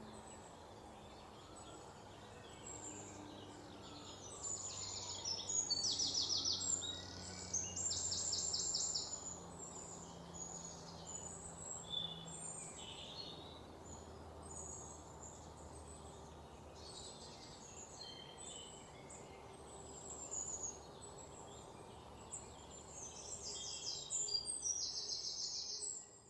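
Wild birds calling in the swamp: repeated short chirps and several fast trills, the busiest bursts a few seconds in and again near the end, over a faint steady low hum.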